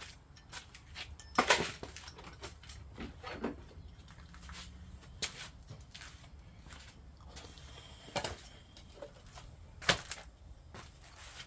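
Scattered clicks and knocks of hand tools being handled and set down, with a louder knock about a second and a half in and another near the end.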